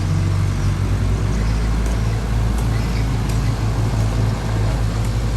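Heavy diesel engine running steadily at working revs, a constant low drone.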